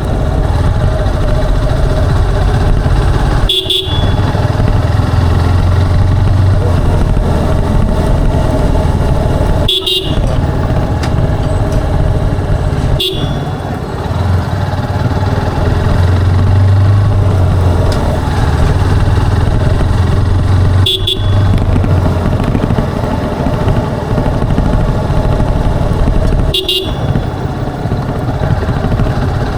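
Motorcycle engine and exhaust running steadily under way, with wind and road noise; the low drone swells and eases a little with the throttle. Five times there is a very brief sharp break in the sound.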